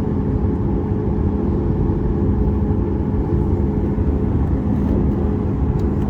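Steady cabin noise of a Boeing 737 MAX 8 with its CFM LEAP-1B turbofans at idle as the airliner rolls slowly onto the runway: a constant low rumble with a steady droning hum through it.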